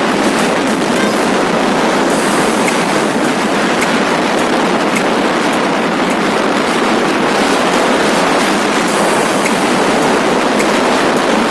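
Steady loud rushing noise of a motorcycle ridden at speed: exhaust and wind noise with no changes in pace.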